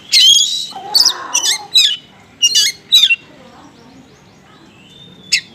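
Small songbirds calling: a quick run of sharp, high chirps mixed with harsh scolding notes over the first three seconds, then a pause and a single short chirp near the end.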